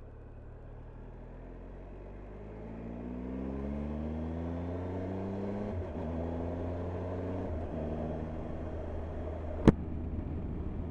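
Motorcycle engine accelerating: its note climbs steadily, drops at an upshift about six seconds in, climbs again and drops at a second upshift. A single sharp knock comes near the end.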